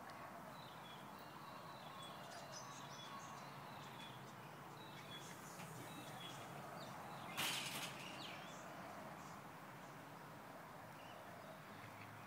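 Outdoor ambience with small birds chirping faintly. About seven seconds in comes a single short burst of rushing noise, the loudest sound here.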